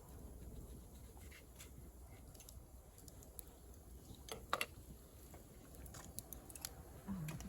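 Faint scattered clicks and crackles over a low steady rumble, with two louder clicks about halfway through.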